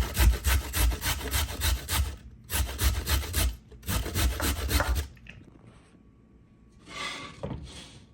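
Carrots being grated on a metal grater, in quick rough strokes in three short runs that stop about five seconds in; a brief rustle follows near the end.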